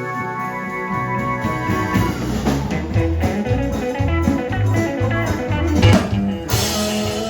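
Band playing blues-rock: guitar over bass and drums, with a cymbal crash about six and a half seconds in.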